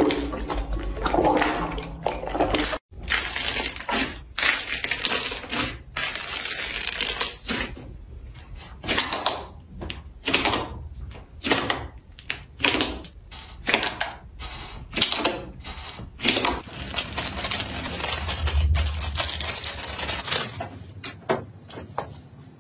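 Slime being squeezed and pressed by hand, a run of wet squelching and crackling squishes that come about once a second in the middle stretch.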